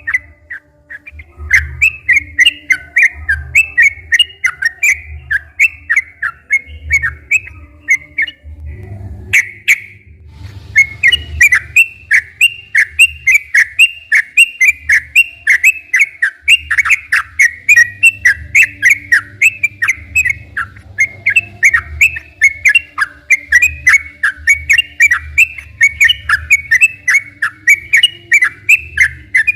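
Yellow-vented bulbul (trucukan) singing a long, fast run of short chattering notes, several a second, with brief breaks about one second in and about ten seconds in.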